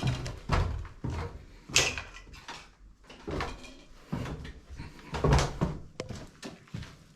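Footsteps and a door being opened and handled: irregular knocks and thumps, the sharpest a little under two seconds in.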